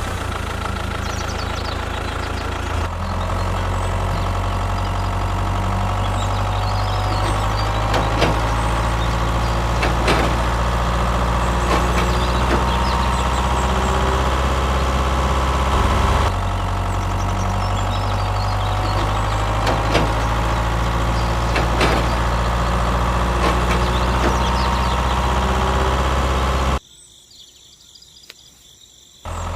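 Tractor engine idling with a steady low hum and a few sharp clicks. It drops away for about two seconds near the end, then resumes.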